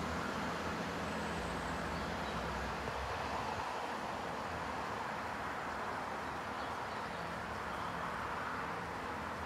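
Diesel multiple unit receding down the line, its low engine drone fading out after about three seconds and leaving a steady rushing noise.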